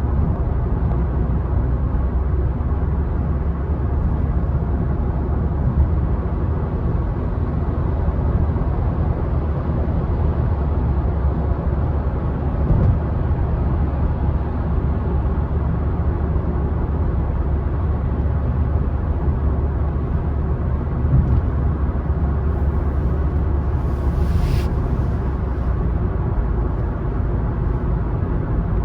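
A car driving along a road, giving a steady low rumble of tyres and engine. About 24 seconds in comes a short, brighter hiss lasting under a second.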